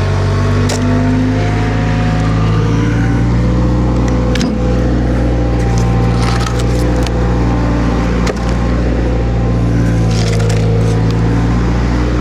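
Skid steer engine running steadily at working revs, with a few sharp knocks from the load scattered through it.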